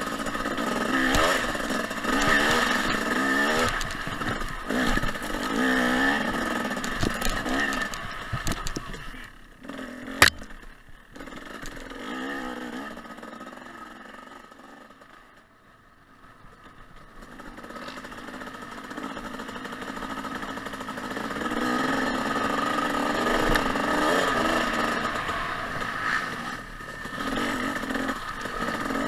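Dirt bike engine, a 2014 Husqvarna TC 250 two-stroke, revving up and down as it is ridden along a trail. A single sharp knock comes about ten seconds in. The engine drops away to a low level around the middle, then picks up and revs on again.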